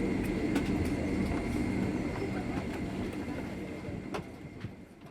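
Cabin ambience inside a Boeing 767-300 airliner: a steady hum of engines and air systems with scattered small clicks, fading out about five seconds in.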